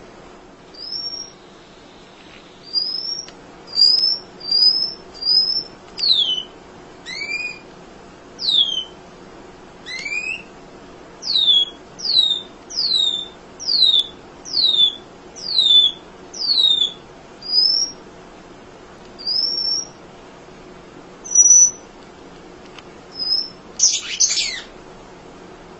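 Munia (emprit) calling: a long series of short, sharp, high chirps, some rising and many sweeping steeply downward, about one every half-second to second. A brief burst of harsher, busier chatter comes near the end.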